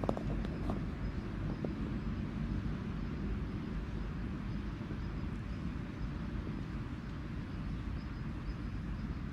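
Steady low outdoor rumble with no distinct events, plus a few faint clicks in the first two seconds.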